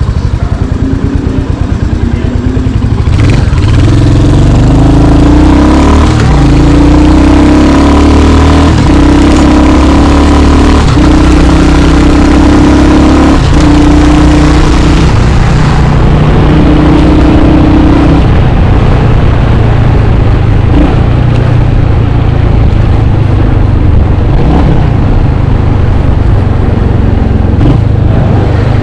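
Royal Enfield Hunter 350's single-cylinder engine under way, its note climbing and breaking several times as the bike shifts up through the gears, then settling into a steady cruise for the last ten seconds or so.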